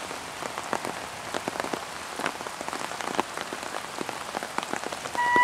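Steady rain falling, with many separate drops ticking on surfaces. Just before the end a concert flute comes in on one steady held note.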